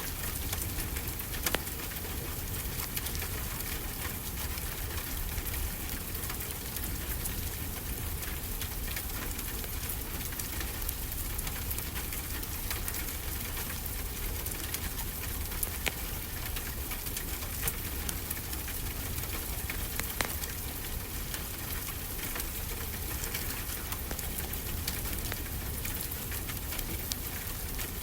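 Steady rain with a low rumble, and scattered sharp crackles from a wood fire in a fireplace.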